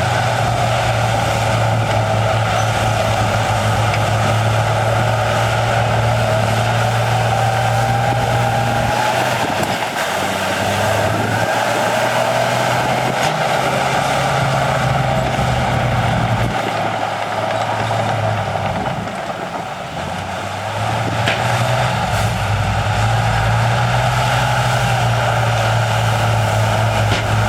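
Heavy diesel engine of an earthmoving machine running steadily under load, with a higher whine over it. It eases off briefly about a third of the way in and again for a few seconds past the middle, then picks back up.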